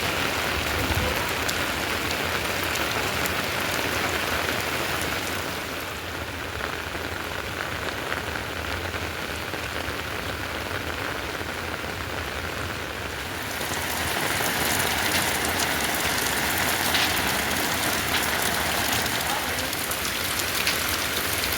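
Heavy rain falling steadily as an even hiss. It eases a little for several seconds in the middle, then grows louder again about two-thirds of the way in.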